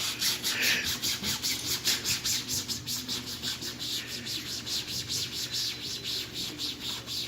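A stiff scrub brush scrubbing the white wall of a tire with soapy water in fast, even back-and-forth strokes, about five a second, working off the blue protective coating.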